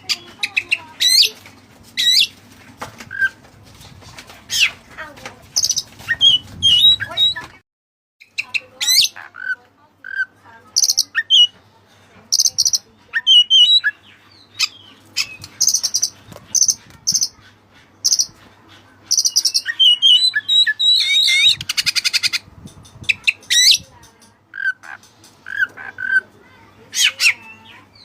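White-breasted Oriental magpie-robin (kacer) singing a varied song of short whistles, sharp chirps and rapid high phrases, with a buzzy rattle a little past the twenty-second mark; the song carries mimicry of cililin calls that the bird was trained on. The song breaks off briefly about eight seconds in.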